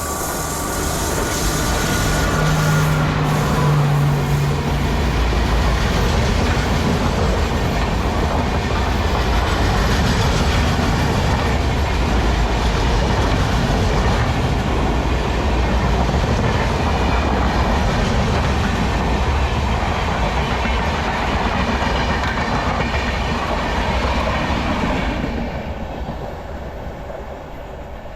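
Express train hauled by a WAP-4 electric locomotive running past: a loud, steady rush of wheels on rail and coaches with some clickety-clack, and a low hum in the first few seconds. It fades away near the end as the train passes.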